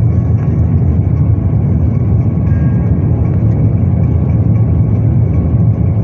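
Steady low rumble of an Airbus A350-900 airliner, heard from inside the cabin, even throughout.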